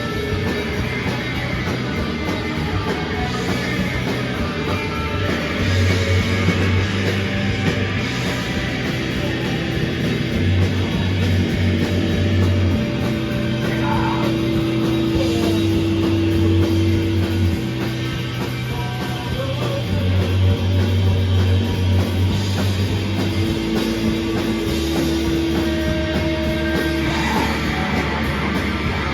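Live rock band playing an instrumental passage: electric guitars over bass and drum kit, with the bass moving in long notes and a long held note that sounds twice.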